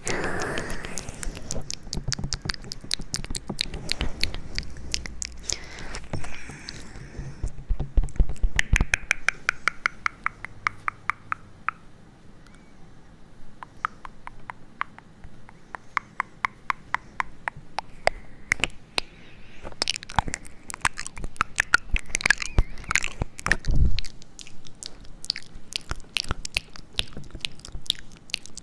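Close-miked ASMR trigger sounds: dense crisp clicks and crunches, with a quieter stretch midway and a couple of heavier thumps.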